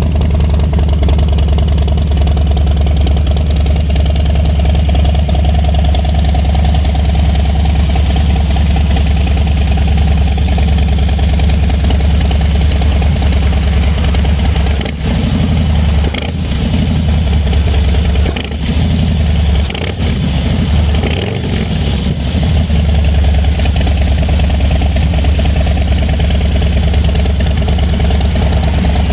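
Harley-Davidson Low Rider S's Milwaukee-Eight 117 V-twin running through an aftermarket Pitbull Cycle exhaust, idling with a steady low beat. About halfway through, the sound dips and wavers a few times before settling back to a steady idle.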